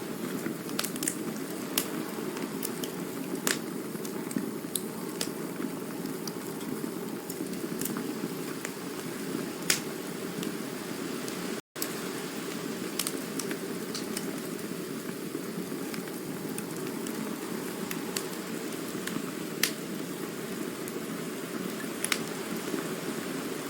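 Campfire burning: a steady low rush of flame with scattered sharp crackles and pops, cutting out for an instant about halfway through.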